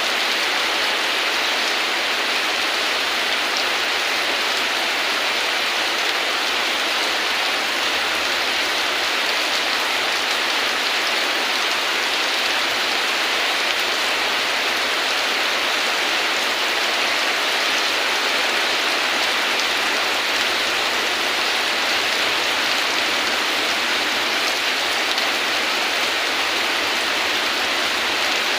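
Steady heavy rain falling, an even hiss of drops with no change in strength.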